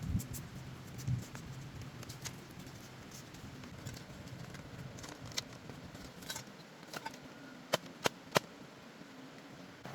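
Scattered light clicks and taps, with three sharp clicks in quick succession near the end.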